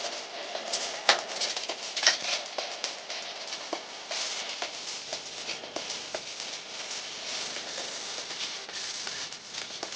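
Irregular scraping and light clicking over a steady hiss, with sharper knocks about one and two seconds in.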